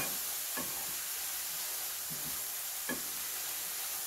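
Chicken stir fry sizzling in oil in a frying pan, with a utensil stirring and scraping through the food several times.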